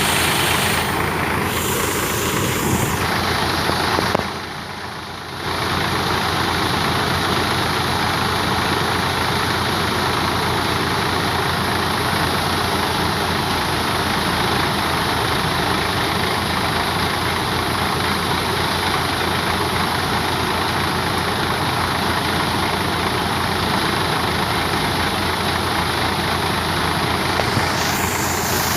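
Tractor-driven wheat thresher running steadily, a loud dense machine noise over the tractor engine's low hum. It dips briefly about four seconds in.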